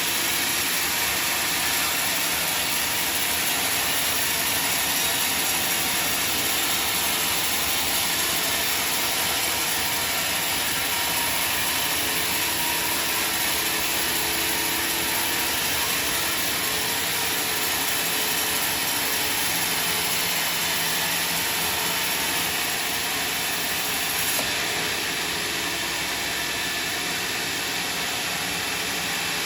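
Sawmill saw running and cutting through a large log: a steady mechanical noise with a high hiss, which falls away about 24 seconds in.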